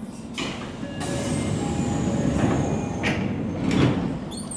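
Seibu 9000 series commuter train standing at a platform with a steady low rumble, a thin falling whine and its sliding doors closing, ending in a couple of knocks about three seconds in.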